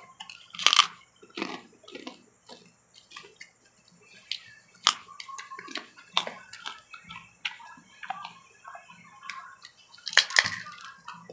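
People crunching and chewing crispy fried macaroni chicharon dipped in vinegar, close to the microphone: a run of sharp, irregular crunches and wet mouth clicks, loudest about a second in, near the middle and near the end.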